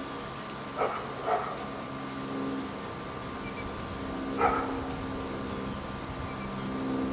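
A dog barking three times, two quick barks about a second in and one more a few seconds later, over a steady low hum.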